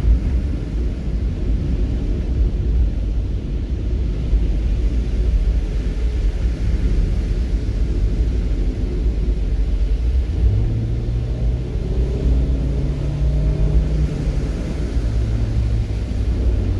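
Steady low rumble of a moving vehicle. About ten seconds in, an engine note comes up and rises slowly in pitch as it speeds up, drops away, and comes back lower near the end.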